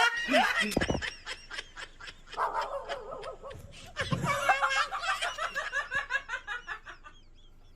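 A person laughing, in a quick run of short repeated bursts.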